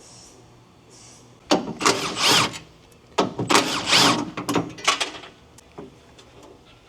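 Power tool running in two bursts, the first about a second long and the second about two seconds long, its pitch rising and falling as it spins, followed by a few light clicks.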